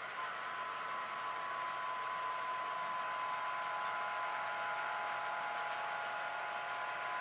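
HO scale model train running, with a steady whine over a hiss that grows a little louder in the middle.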